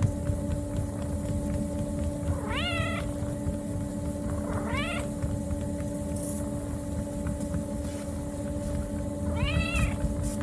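A cat meowing three times, each meow rising and then falling in pitch, over a steady low hum.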